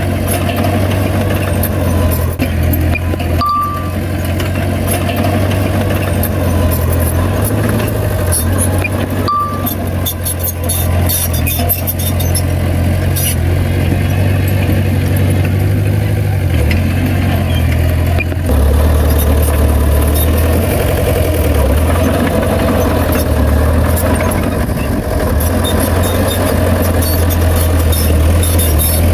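Heavy diesel earthmoving machinery running steadily under load, its engine note deepening about two-thirds through. Two short reversing beeps sound early on, and there is some metallic clattering in the middle.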